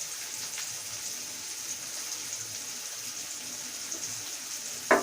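Chopped onion frying in hot oil in a kadai, a steady sizzle. A short clink of a utensil just before the end.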